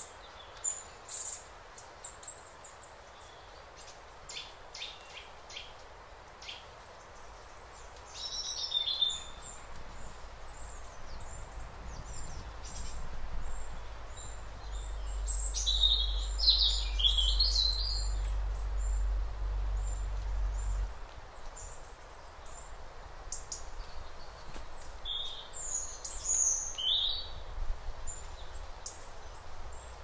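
Woodland songbirds chirping and calling in short high notes, busiest in the middle and near the end, over a steady background hiss. A low rumble builds from about twelve seconds in and stops abruptly just past twenty seconds.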